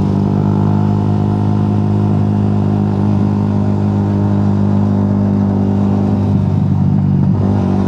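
Motorcycle engine running at a steady pitch while riding at constant speed, with road and wind noise, and a brief wobble in the engine tone about six and a half seconds in.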